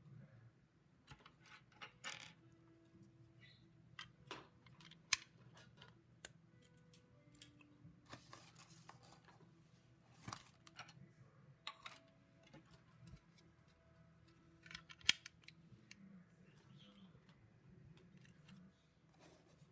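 Plastic LEGO pieces being handled and pressed together: scattered faint clicks and rattles, with two sharper clicks about five seconds in and near the end, over a low steady hum.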